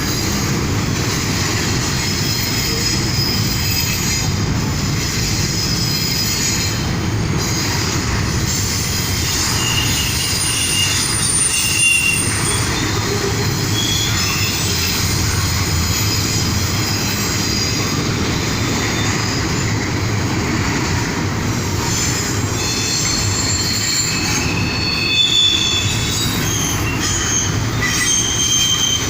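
CSX intermodal train's cars rolling past steadily, with wheels rumbling on the rails and thin high-pitched wheel squeals that come and go over the noise.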